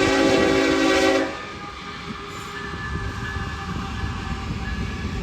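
Train horn sounding a steady chord that cuts off about a second in, followed by the steady rumble and rattle of the train rolling past on the rails.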